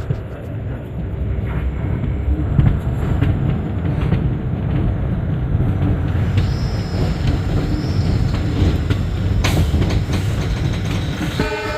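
Passenger train running, heard from on board a coach: a steady low rumble of wheels on the track with clickety-clack from the rail joints and a sharp knock about nine and a half seconds in.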